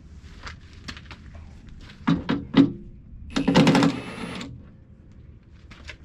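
Metal clanking and rattling in two bursts, about two seconds in and again for about a second from three and a half seconds in, with scattered small clicks and knocks around them.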